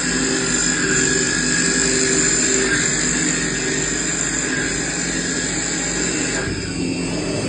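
CNC machine running steadily while machining caprolon (cast nylon), with a high steady whine over a lower drone. The sound changes about six and a half seconds in.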